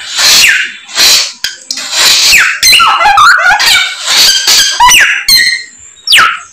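A samyong songbird singing loudly in a rapid string of varied phrases: harsh rasping notes mixed with sharp downward-swooping whistles. These are the mimicked songs, its 'isian'.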